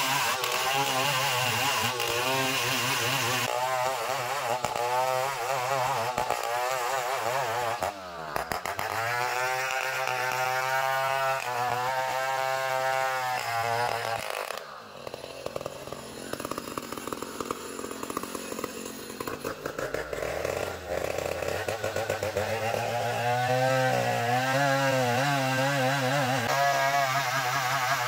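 Engine-driven saw working through an ulin (ironwood) log, its engine note wavering under load. The pitch sags about a third of the way in, then drops away about halfway and runs quieter for several seconds before building back up.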